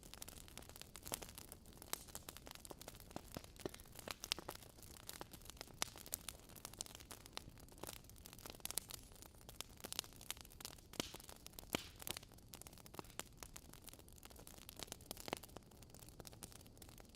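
Wood fire crackling in a fireplace: irregular sharp snaps and pops, several a second and uneven in loudness, over a low steady hiss.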